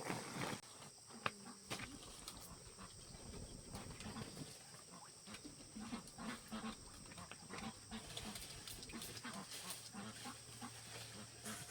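Piglets grunting faintly: short, low grunts repeated several times a second, with scattered clicks.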